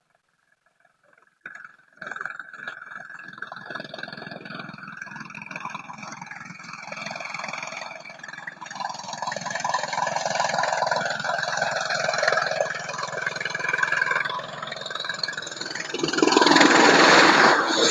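Helicopter engine and rotor noise, starting about a second and a half in and growing steadily louder as it comes closer. It is loudest near the end, where a broad rush of noise sweeps in as it passes close by.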